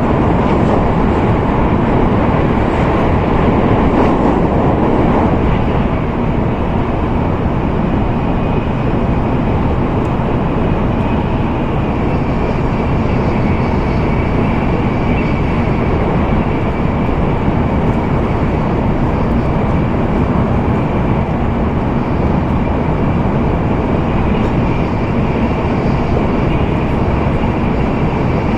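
Cabin noise of an N700A Tokaido Shinkansen train running: a loud, steady rush of rolling and air noise heard inside the carriage, easing slightly about a fifth of the way in. A faint high whine joins it about halfway through.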